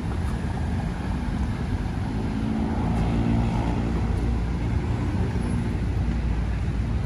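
Steady city road traffic rumble, with one vehicle's engine coming up louder in the middle and then fading.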